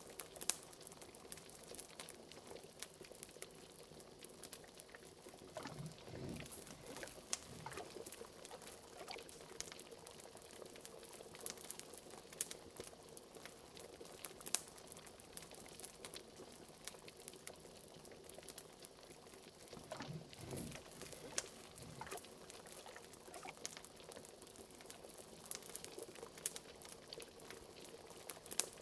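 Liquid bubbling and popping in a pot, like a cauldron on the boil, with a fire's sharp crackles scattered throughout. A couple of larger bubbles burst about six seconds in and again about twenty seconds in.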